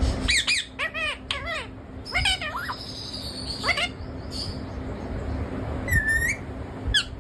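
Pet parrot calling: a quick run of chirps and squawks that sweep up and down in pitch, then a long, steady high whistle about two seconds in, with a few more squawks near the end.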